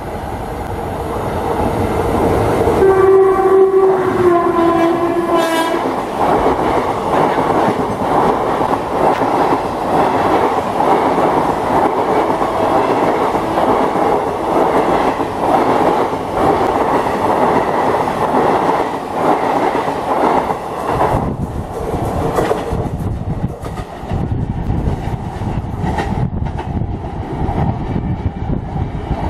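Central Railway WCAM-3 electric locomotive sounding its horn about three seconds in, the pitch dropping as it passes at speed, followed by a long train of passenger coaches rushing past with a steady loud rush of wheels on rail. Near the end the noise thins to a low rumble as the train draws away.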